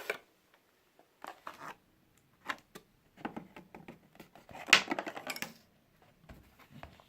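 Small containers and packaging being handled on a table, giving a scattered run of clicks, taps and rustles. A sharper knock comes just under five seconds in.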